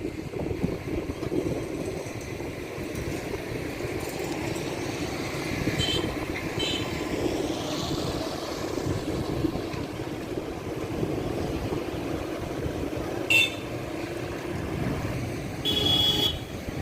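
Strong wind blowing over the microphone, a steady low rumble that rises and falls in gusts, with a few short high tones about six seconds in and a louder, longer high tone near the end.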